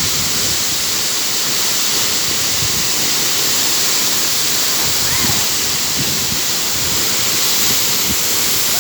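Waterfall rushing: a steady, loud hiss of falling water, with faint voices in the background.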